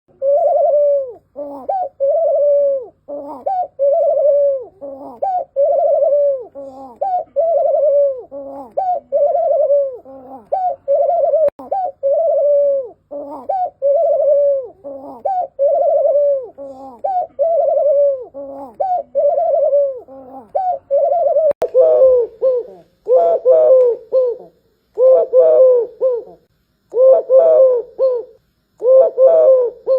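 Barbary dove and Eurasian collared dove cooing: short coos repeated about once a second, then from about two-thirds of the way through a different, more broken coo in separate phrases with short gaps between them.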